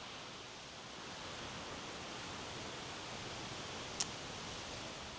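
Steady rushing noise of sea wind and surf at a beach, with a single sharp click about four seconds in.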